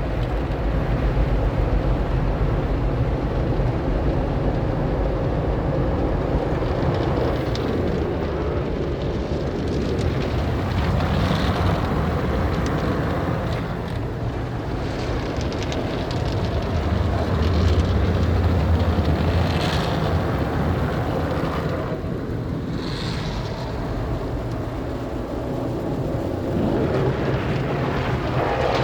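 MacNeil car wash tunnel equipment running: a steady, loud mix of machinery and water-spray noise that swells and eases as the car moves along, with short bursts of hiss.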